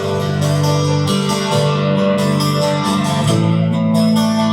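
A live rock band playing the instrumental opening of a song, guitar chords over a steady beat, with no singing yet.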